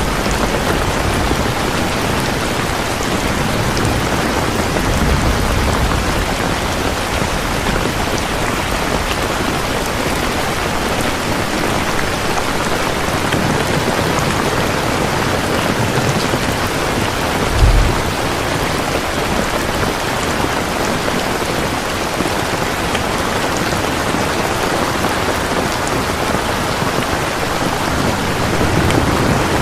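Steady, heavy rain falling and pattering on surfaces, with low rumbles now and then and a short low thump about two-thirds of the way through.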